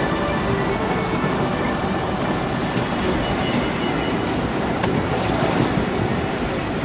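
Train running on rails: a steady rumble with thin, high squealing tones from the wheels.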